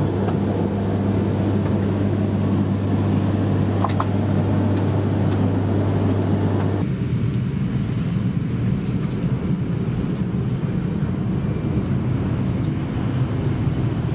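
Steady low electrical hum of the E3 series Genbi Shinkansen standing at the platform. About seven seconds in it switches abruptly to a rougher low rumbling noise.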